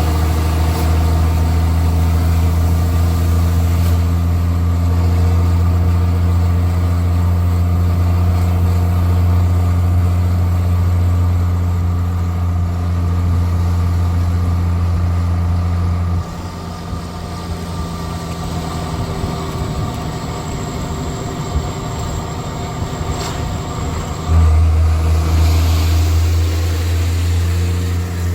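Straight-piped Cummins C8.3 inline-six diesel in a school bus, pulling steadily with a deep, loud exhaust drone. About sixteen seconds in the throttle lifts and the exhaust drops to a quieter, rougher note for about eight seconds, then it comes back on power with a sudden jump in loudness.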